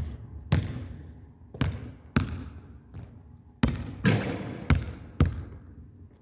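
Basketball bouncing on a gym floor: about eight sharp thuds at uneven intervals, each ringing out with the echo of a large hall.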